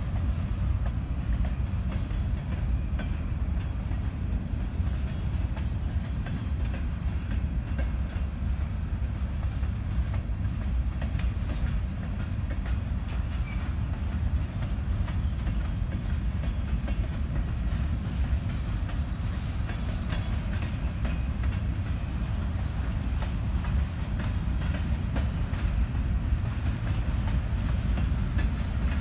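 Empty covered hopper cars of a freight train rolling past: a steady low rumble with light clicking of the wheels over the rail joints.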